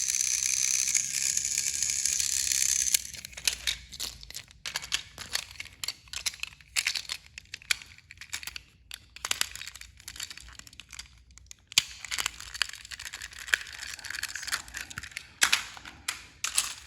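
Small electric motor of a battery-powered toy Donald train engine running with a steady high whine, which stops suddenly about three seconds in. After that come scattered clicks and rustling as the plastic toys are handled.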